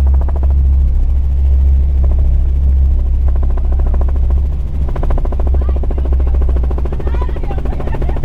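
Helicopter in flight: a steady low drone from the engine and rotor, with a rapid, even chopping from the rotor blades that grows stronger about halfway through.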